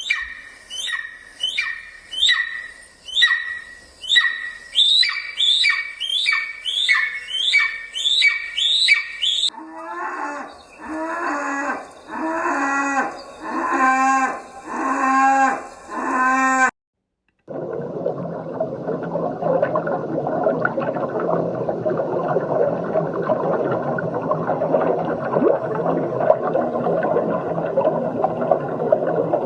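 A run of short, high-pitched animal calls, about one a second, gives way to a run of lower calls whose pitch bends downward. After a brief silence a steady rushing noise begins.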